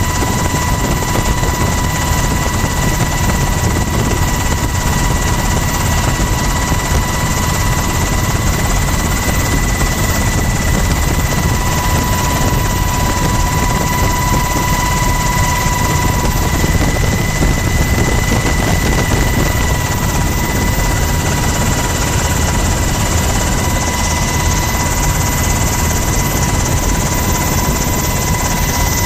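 Helicopter cabin noise heard from beside the door: the rotor and turbine engine running steadily, with a constant high whine over a dense low rumble.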